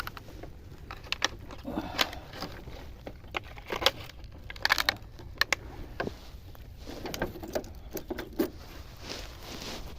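Footsteps of someone walking along a dirt path, irregular crunching steps with clicks and rustles of carried gear.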